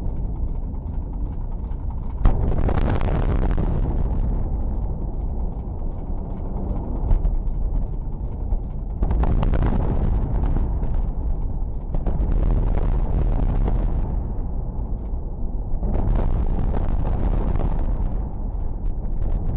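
Building demolition: a heavy, continuous rumble of collapsing structure and falling debris, with a sharp bang about two seconds in and another about seven seconds in, and surges of crashing noise later on.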